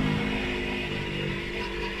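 Motorcycle engine running off the throttle, its pitch sinking slowly and the sound getting quieter as the bike slows.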